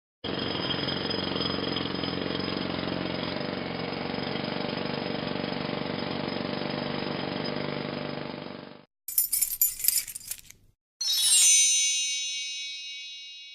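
A steady noisy sound effect with faint held tones runs for about eight and a half seconds and cuts off. A cash register's 'ka-ching' follows: a short rattle of mechanical clicks, then a bright bell ding that rings on and slowly fades.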